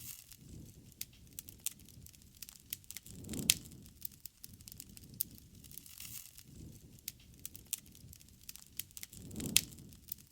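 Wood campfire crackling, with sharp pops and snaps scattered throughout over a low flame rumble. The rumble swells about three seconds in and again near the end, each time with a loud pop.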